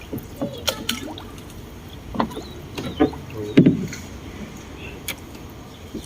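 Rowboat being rowed: a handful of short, irregular knocks and splashes from the oars between strokes.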